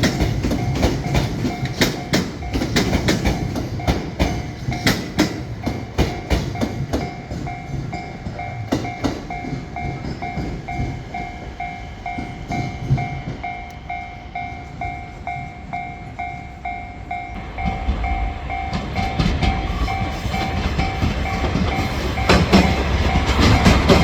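A train passing over a Japanese level crossing, its wheels clicking over the rail joints, while the crossing's warning bell rings in a steady pulsing ding about twice a second. A low rumble builds from about two-thirds of the way in as more train noise comes close.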